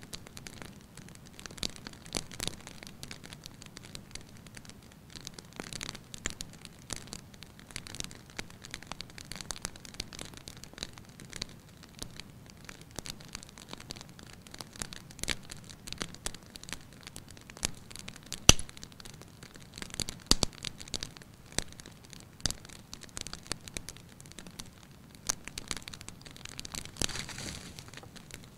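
Wood fire burning in a fireplace: a steady low crackle with frequent sharp pops and snaps of burning wood, the loudest pop about two-thirds of the way through.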